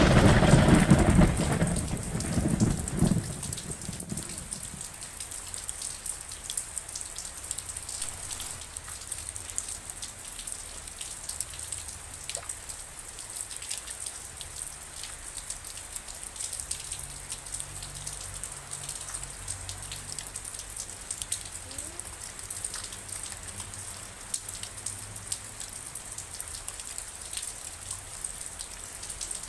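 Rain falling steadily, with single drops ticking through it. A loud thunderclap fills the opening seconds and rumbles away about four seconds in, leaving a faint low rumble under the rain.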